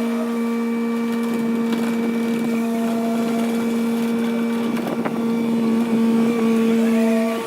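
Hyundai HW60 wheeled excavator's diesel engine running steadily at a constant pitch, with a swell of rougher working noise and a sharp click around the middle.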